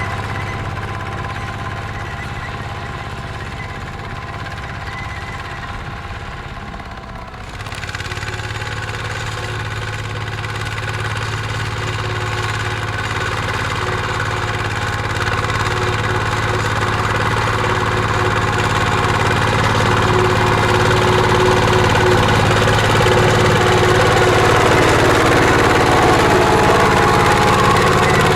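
Mini tractor's engine running steadily while plowing a field. About seven seconds in it picks up sharply, then grows gradually louder toward the end.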